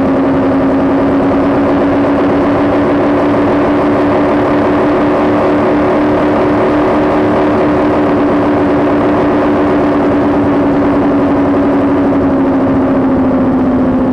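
Cigarette racing boat's engine running at an unchanging speed: a loud, even drone with no revving.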